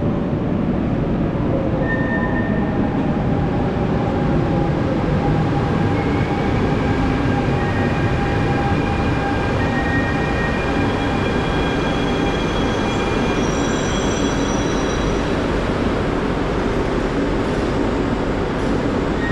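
A train running through a station, a steady rumble with thin high squealing tones that rise in and fade out over the middle of the stretch.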